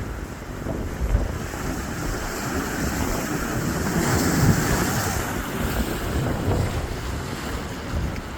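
Storm surf breaking and washing in under heavy wind buffeting the microphone, with a wave's rush swelling to its loudest about halfway through.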